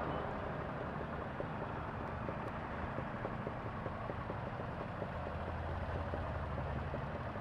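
Honda CBR250R's single-cylinder engine idling steadily in slow traffic, with a low, even hum; the engine is running hot, its coolant temperature reading high.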